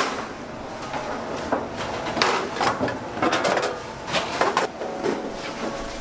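A run of short knocks, clatters and rustles, as of objects being handled, busiest in the middle.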